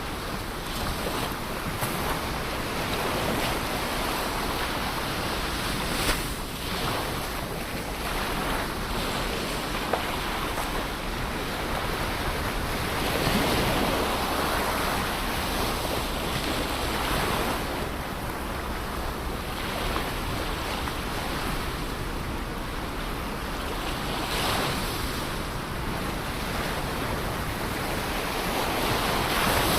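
Ocean waves breaking and washing on the shore in a steady rushing surf, swelling and easing every few seconds, with wind on the microphone.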